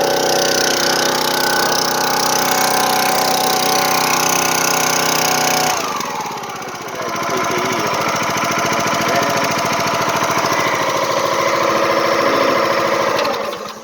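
Two-stroke chainsaw engine running at high revs. Its speed drops about six seconds in, then it revs back up, and it dies away at the very end.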